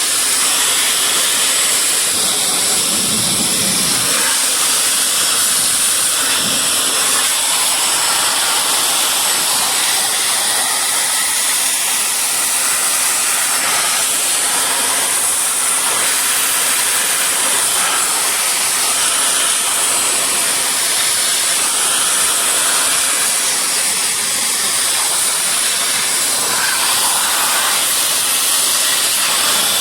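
Hitachi RB40SA blower running steadily at high speed, a loud rush of air with a constant high whistle, blowing water off a washed car engine.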